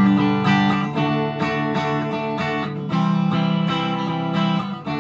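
PRS SE McCarty 594 electric guitar with its humbuckers split to single-coil mode, strumming chords that ring out through a VOX AC10 valve amp miked with a Shure SM57. A fresh strong strum comes about three seconds in.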